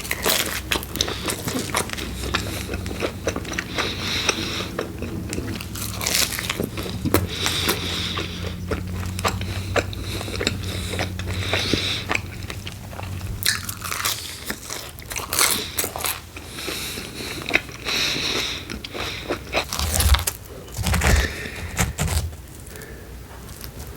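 Close-miked biting and chewing of pepperoni pizza, the crust crunching in irregular bites.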